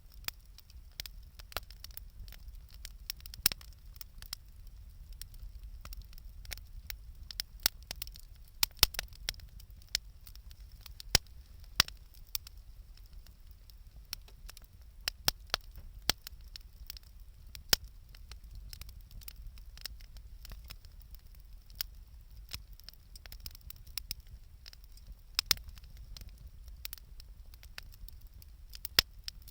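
Wood bonfire crackling, with irregular sharp pops scattered throughout over a low steady rumble.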